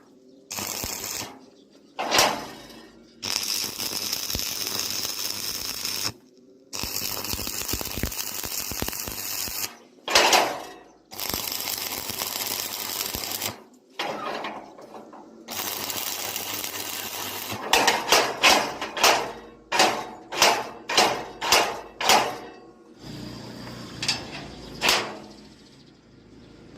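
Electric arc welding on steel, crackling and hissing in bursts of one to three seconds, each stopping abruptly. About two-thirds of the way in come a run of about a dozen sharp hammer blows on metal, roughly two a second, then two more blows near the end.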